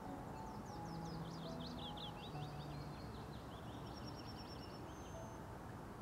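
A songbird sings a rapid run of sharply falling notes lasting about three seconds, followed by a short high trill. Soft background music with sustained low notes runs under it.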